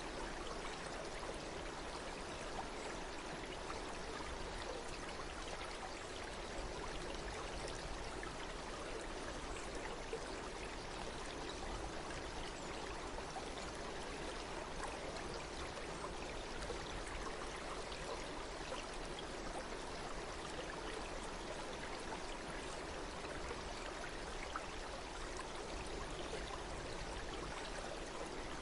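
Stream water flowing steadily, a continuous even rush with no breaks.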